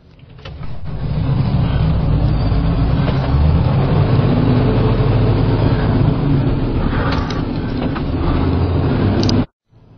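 Truck engine running steadily under way with road noise. It fades in over the first second and cuts off abruptly near the end.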